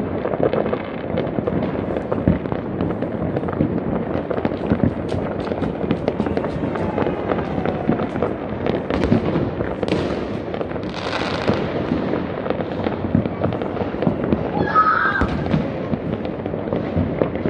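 Many fireworks and firecrackers going off near and far at once: a dense, unbroken crackle of pops and bangs.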